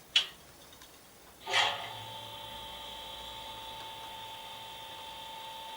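A click, then about a second and a half in the sound decoder of a model Class 37 diesel locomotive plays its engine start-up through the loco's small speaker: a short burst, then a steady diesel idle. The start-up no longer cuts out, which the owner takes as the fault cured by lowering CV63 to 150.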